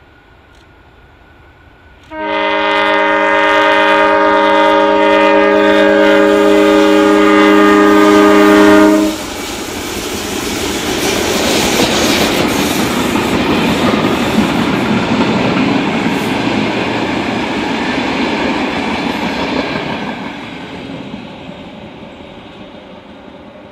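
SM42 diesel locomotive sounding a long horn blast, a steady chord held for about seven seconds. The train then passes with its passenger coaches, the engine and the wheels on the rails making a steady rumble that fades away near the end.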